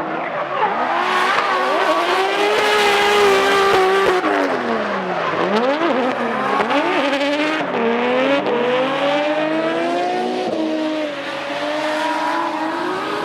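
Two drift cars in a tandem battle: their engines rev hard at high rpm, the pitch rising and falling as the drivers work the throttle through the slide, over tyre squeal. About five seconds in, the engine note drops sharply and then climbs again.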